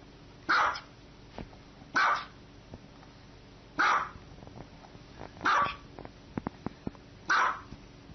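A dog barking: five single sharp barks, spaced about one and a half to two seconds apart.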